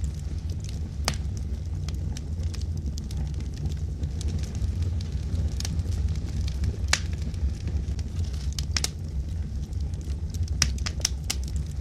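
Wood fire burning in a fireplace: a steady low rumble of flames with scattered sharp crackles and pops from the burning logs, several in quick succession near the end.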